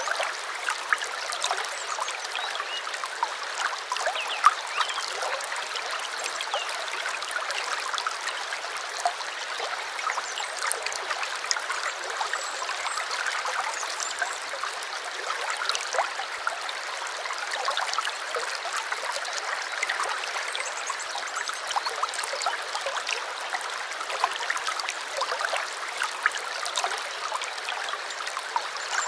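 Small stream trickling and babbling: a steady rush of running water dotted with many small splashes.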